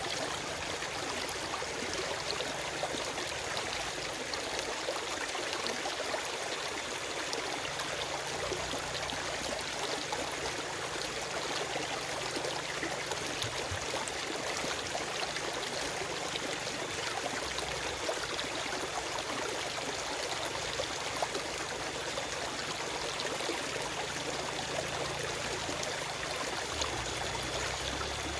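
A forest stream flowing over stones: a steady rushing, bubbling water sound with no birds.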